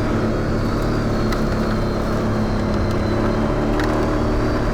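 ATV engine running at a steady pace on a trail, with a few faint ticks.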